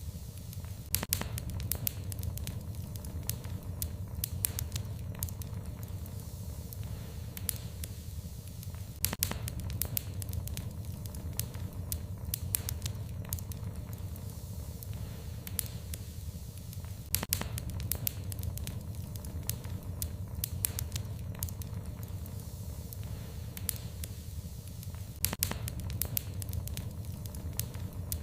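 Wood fire in a fireplace crackling steadily over a low rumble of flame, with a few sharper, louder pops every several seconds.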